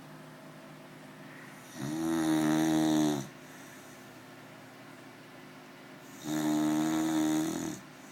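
A sleeping beagle snoring: two long, pitched snores of about a second and a half each, roughly four and a half seconds apart.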